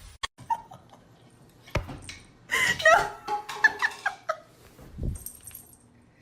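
A pet's short, high-pitched calls come in a few quick bursts, rising and falling in pitch, with a few sharp knocks in between.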